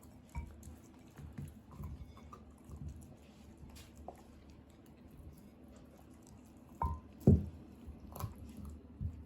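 Kai Ken dog chewing and gnawing on a raw bear bone with meat on it, eating greedily, in irregular wet smacks and small crunches. There is one louder knock a little past two-thirds of the way through.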